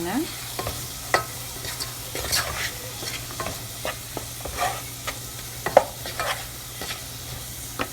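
A spatula stirring and scraping a sauce in a frying pan, with irregular scrapes and taps against the pan over a light sizzle.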